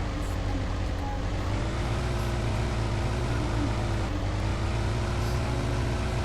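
Car running steadily on the move, a constant low engine and road rumble.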